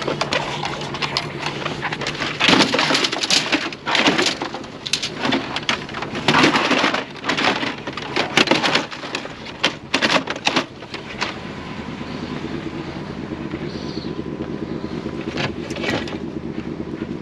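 An engine running steadily under a run of loud, irregular clatters and bangs. The clatters stop about eleven seconds in, leaving the engine hum.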